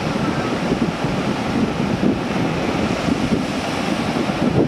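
Wind buffeting the microphone over a steady rush of sea waves.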